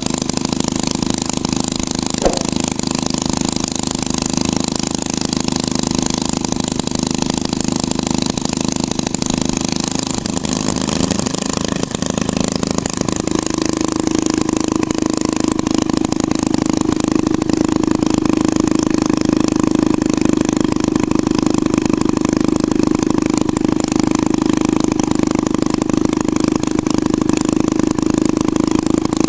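Small motor running steadily with a droning hum; its pitch wavers about ten seconds in, then it settles and runs a little louder.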